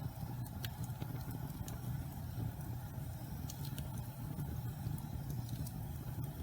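Pine logs burning in a fireplace: a steady low rumble of the fire with scattered sharp crackles and pops, several in a few seconds.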